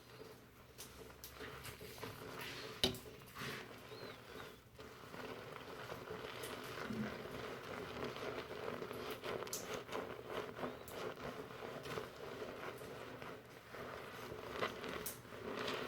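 Fingers rubbing shampoo lather through hair, a dense, crackling rustle of foam and wet hair, with one sharp click about three seconds in.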